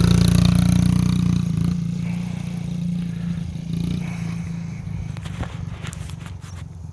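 Small Honda CRF50 dirt bike's single-cylinder four-stroke engine running, loud at first and fading away over the next few seconds as it moves off.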